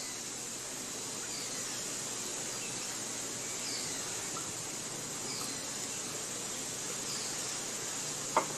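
Steady forest ambience: a high insect-like hiss throughout, with a bird giving short falling chirps every second or so. There is one sharp click shortly before the end.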